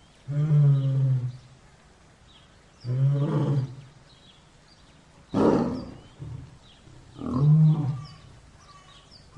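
A large animal calling over and over, each low, pitched call about a second long and coming roughly every two seconds. Faint high chirps sound behind them.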